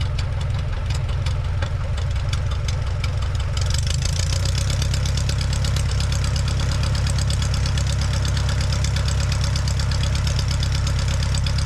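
Aeronca 7AC Champ's piston engine running at low power, a steady drone with a fine regular pulse. About three and a half seconds in, a brighter hiss joins it.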